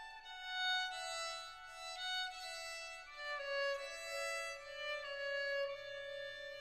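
Background music: a violin playing a melody, some notes sliding into the next.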